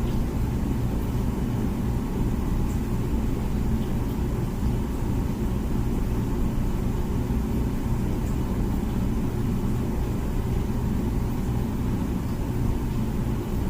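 Comfee dishwasher running steadily mid-cycle: an even low hum with a rushing noise over it.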